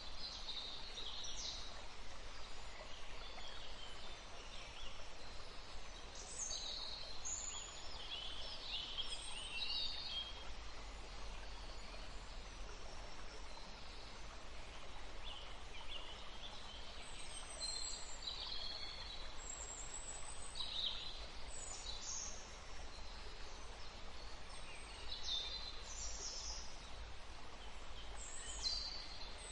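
Woodland stream running steadily, with small birds chirping and singing in short phrases every few seconds.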